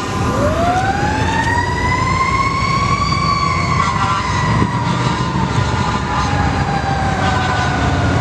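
Fire truck siren winding up from a low pitch to a high wail over about three seconds, then slowly winding down. The truck's engine rumbles underneath.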